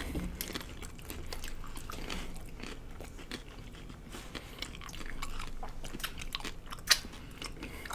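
Close-miked chewing and crunching of hard taco shells, a run of small crackling crunches with one sharper crack near the end.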